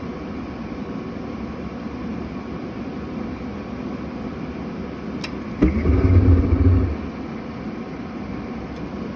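Atwood RV furnace blower running steadily; about five seconds in there is a click, then the burner lights with a loud low rumble for about a second and goes out again. It is lighting but not staying lit, which the repairer traces to too little back pressure.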